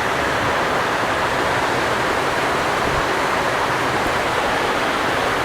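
Heavy rain pouring down with water rushing on the ground, a steady, unbroken rush.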